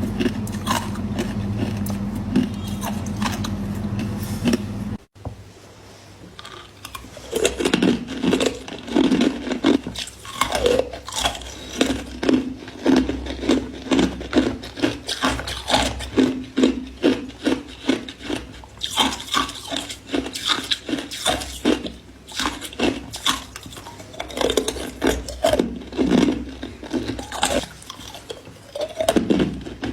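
A person crunching and chewing matcha ice close to the microphone, with sharp crunches coming about twice a second. For the first five seconds a steady hum sits under the crunching; it cuts off suddenly, and after a short lull the chewing starts again.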